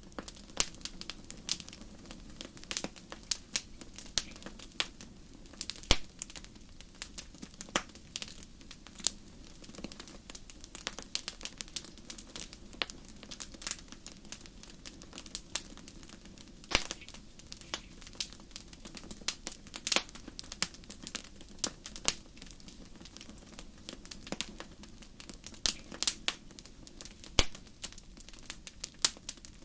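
Wood fire crackling in a fireplace: irregular sharp pops and snaps, a few much louder than the rest, over a soft steady low rush of the flames.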